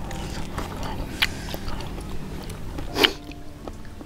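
People chewing and biting food close to the microphone, with occasional sharp clicks and a louder one about three seconds in.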